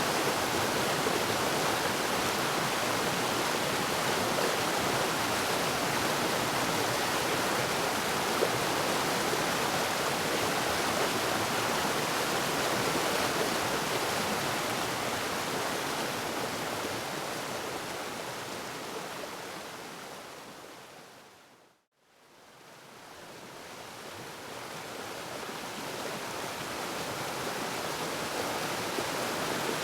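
Waterfall: a steady rush of falling water. About two-thirds of the way through it fades smoothly down to silence, then fades straight back up to full.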